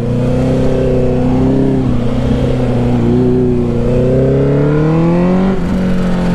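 Honda CBR650R's inline-four engine, breathing through a Black Widow exhaust with the dB killer removed, running at low revs. Its pitch dips and rises gently as the throttle is eased off and on, with a dip about two seconds in and another near the end followed by a rise.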